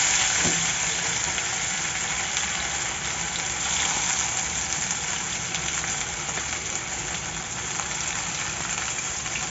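Mutton gola kababs frying in hot oil in a pan over a low flame: a steady sizzling hiss, slightly stronger in the first moment.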